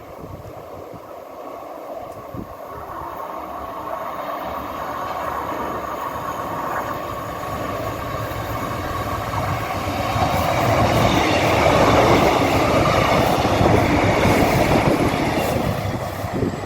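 Diesel passenger train approaching along the line, its rumble and wheel noise on the rails growing steadily louder and reaching its loudest about eleven seconds in, then staying loud as it runs alongside the platform.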